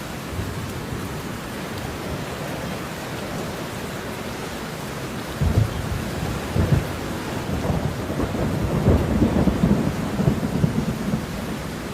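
Steady rainfall, with thunder breaking in suddenly about halfway through and rumbling in low, uneven peaks for several seconds before dying away near the end.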